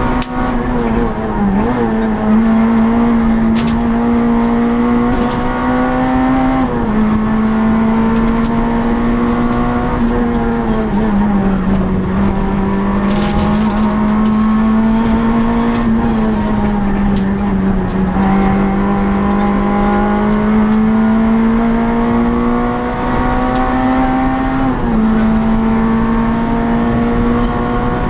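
Citroën Saxo Group N rally car's four-cylinder engine at high revs, heard from inside the cabin. The note climbs slowly and drops sharply twice at upshifts, about seven seconds in and near the end, with two slower falls in pitch as the driver lifts off in between.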